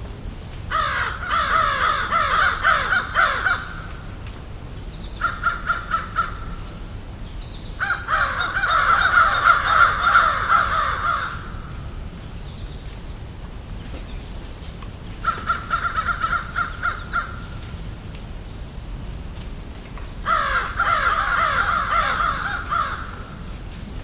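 Crows cawing in five bouts of rapid, repeated caws, the longest and loudest around the middle, with short pauses between, over a steady background hiss.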